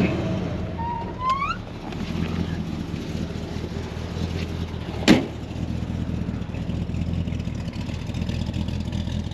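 1957 Chevrolet Bel Air engine idling steadily, which sounds good and gives normal exhaust. A single sharp click comes about five seconds in.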